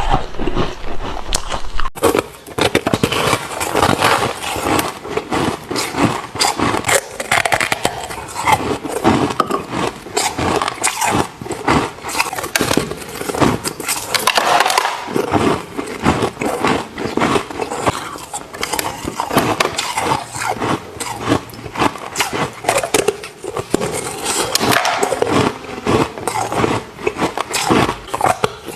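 Close-miked biting and chewing of ice, a dense, unbroken run of crunches and crackles.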